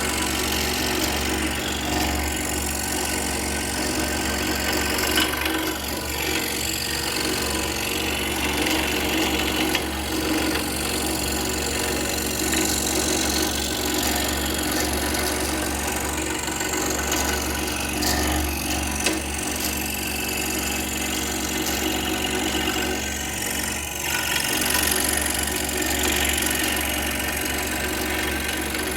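Bauer scroll saw running steadily, its blade cutting through a piece of pine with a continuous buzzing rasp over the motor's hum.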